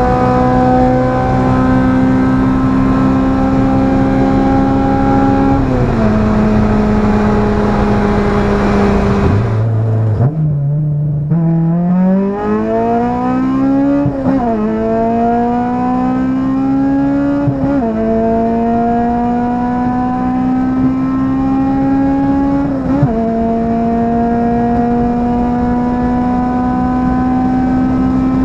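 Honda K20 inline-four engine pulling hard through the gears: held at steady high revs, an upshift, a sudden fall to low revs, then three rising climbs each cut by a quick upshift, and a final climb.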